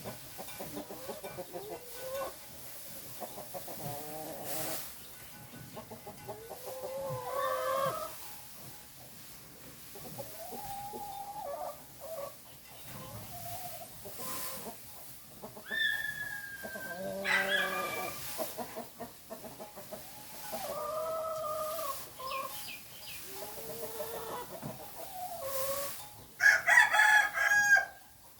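Chickens clucking and calling on and off, with a louder, higher-pitched call near the end.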